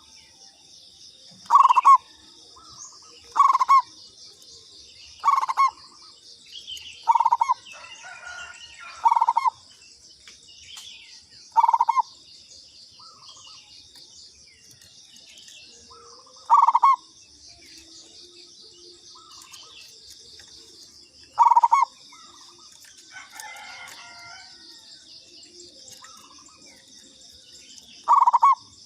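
Zebra dove (perkutut) cooing: short loud coos repeated every two seconds or so at first, then with longer gaps, over a steady high-pitched chirring in the background.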